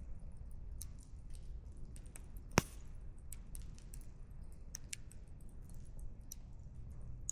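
Wood campfire crackling, with irregular small snaps of burning firewood over a low steady rumble, and one loud pop about two and a half seconds in.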